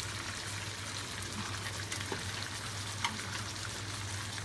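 Food sizzling in a hot pan, a steady crackling hiss over a low hum, with a single click about three seconds in.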